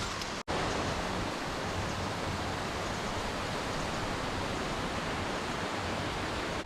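Mountain stream water rushing in a steady, even hiss. It cuts out for an instant about half a second in, then carries on unchanged.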